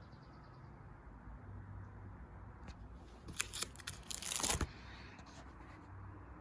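A page of a photo album being turned: a brief rustle with a run of sharp clicks about three seconds in, lasting just over a second, over a low steady hum.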